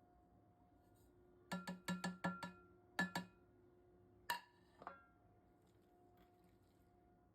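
Kitchen utensils and dishes knocking and clinking: a quick run of five sharp knocks, two more a moment later, then a louder clink that rings like glass and one last knock. A faint steady hum runs underneath.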